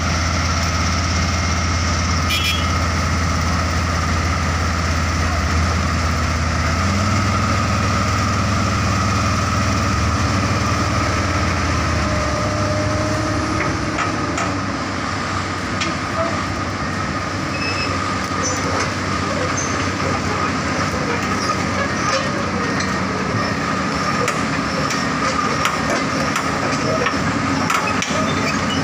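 Excavator's diesel engine running with a steady low drone that shifts in pitch about seven seconds in and drops away around twelve seconds. After that come a thin, steady high tone and scattered knocks.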